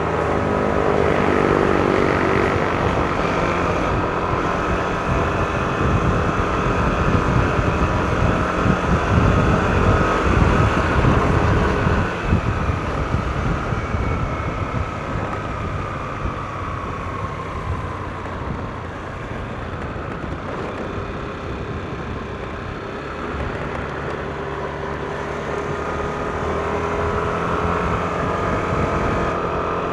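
Yamaha NMAX scooter's single-cylinder engine running under way, its pitch rising and falling with the throttle, with wind rumbling on the mic. It is louder for the first dozen seconds, eases off, then builds again near the end.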